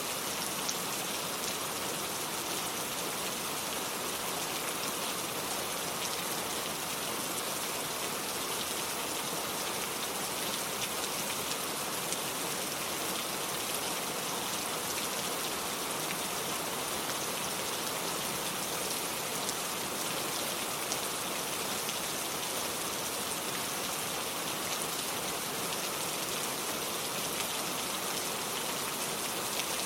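Steady rain pattering on surfaces, an even hiss of many fine drops that does not change.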